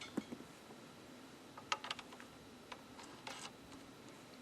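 A few faint, separate metallic clicks from small bolt hardware being handled as a lock washer and star nut are fitted onto a bolt.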